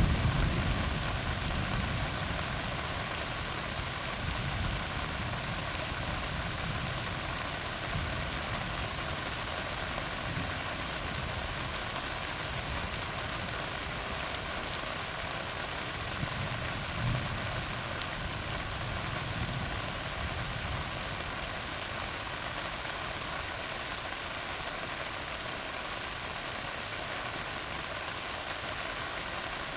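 Steady rain falling on a tar road, with scattered single drops ticking. A low rumble of thunder fades away over the first couple of seconds, with fainter low swells later.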